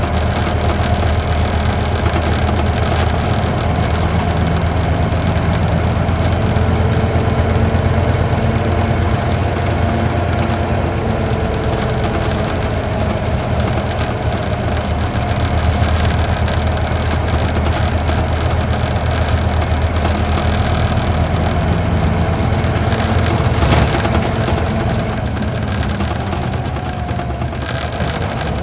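Cabin sound of an Isuzu Gala coach with a V-type diesel engine, pulling steadily up a mountain grade at low speed. The engine note changes about 24 seconds in, as the low drone drops away.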